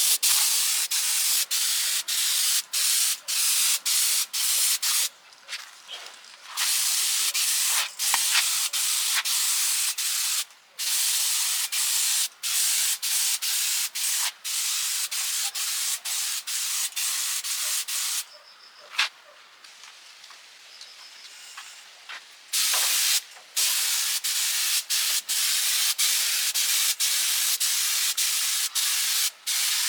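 Compressed-air spray gun hissing in long bursts, broken every second or so by brief silences as the trigger is let go, with a quieter stretch about two-thirds of the way through.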